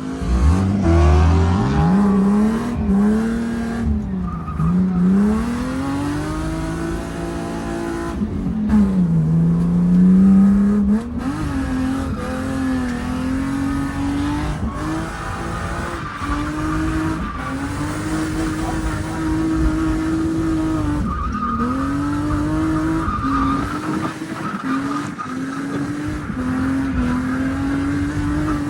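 BMW E36 drift car's engine revving up and down in pitch again and again through a drift pass, with the tyres squealing.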